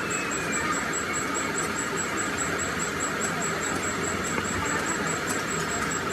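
Workshop machinery running steadily, with a faint high tick repeating about five times a second.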